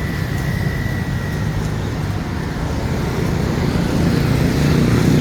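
Road traffic going by, with a vehicle's engine getting louder near the end.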